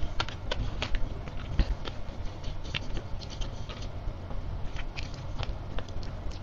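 Close-miked chewing of crisp sea grapes, the little beads popping and crackling in the mouth as a quick, irregular run of clicks.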